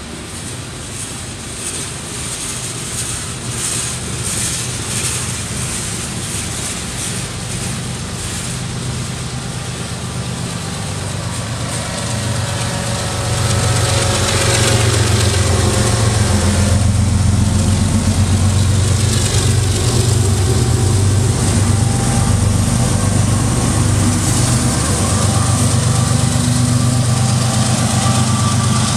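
Slow freight train passing: cars clicking over the rails, then a diesel locomotive engine hum that grows louder about halfway through and holds steady.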